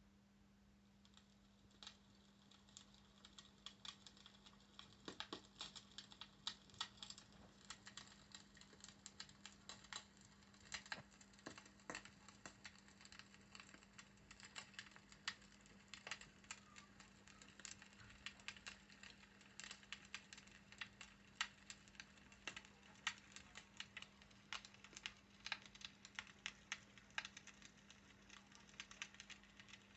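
Fireplace ambience played back by a Google Nest Hub's speaker: irregular crackles and pops of burning wood over a soft hiss, fading in about a second in. A steady low hum runs underneath.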